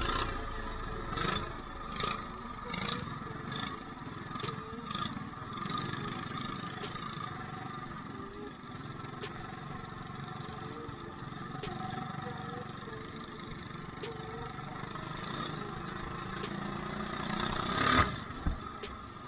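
Mini bike engine running while riding a rough dirt trail, with rattles and knocks throughout and one loud thump near the end.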